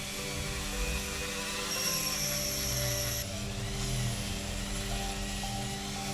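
Motorised rotary wire brush running steadily against a small diecast metal body, stripping the old paint. A higher whine joins in briefly near the middle.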